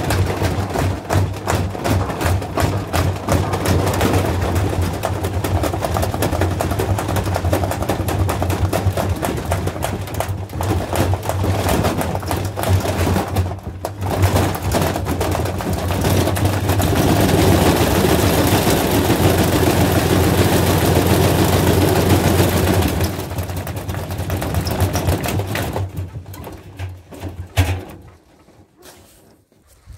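Washing machine running hard with a steady motor hum and fast, heavy knocking and banging from the drum, getting louder for a few seconds midway, then dying away near the end.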